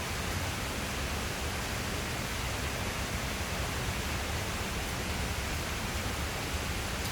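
Steady rain falling, an even hiss with a low rumble underneath that holds at one level throughout.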